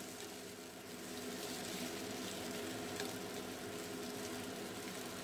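Chicken pieces sizzling in hot oil in a nonstick wok as they are stir-fried and turned with a wooden spatula; a light tap about three seconds in.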